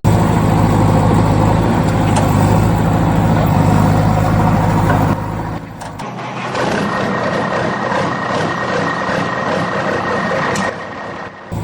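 Tractor engine running steadily. The sound changes abruptly about five seconds in, and a thin steady high tone runs through the second half.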